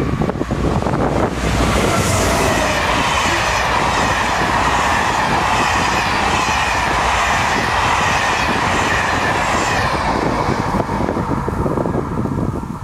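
Intercités train of Corail passenger coaches passing close by on the track, its wheels clattering rhythmically on the rails. It fades out about ten seconds in as the last coach goes by.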